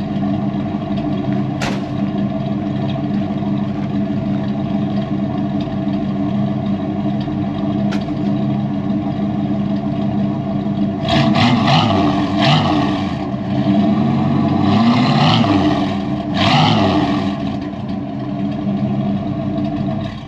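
Ford truck V8 running through a newly fitted exhaust: idling steadily, then revved three times in short blips about halfway through before settling back to idle.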